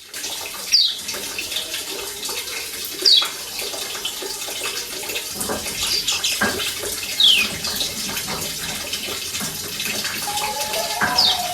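Running, splashing water with a steady hiss. About four short, falling chirps from a Lombok yellow white-eye are spread through it.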